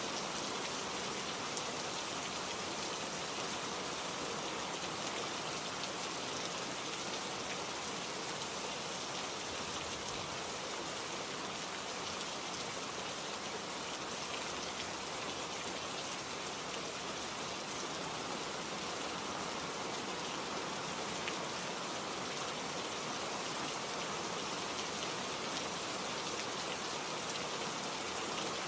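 Steady rain with many fine drop ticks on a surface, an even hiss that does not change.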